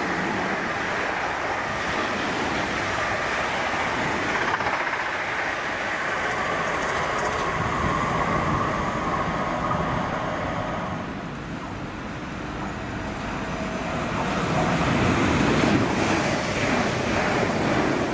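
Electric train running past on the line: a steady rushing rail noise with a faint whine in it, easing about twelve seconds in and then building again.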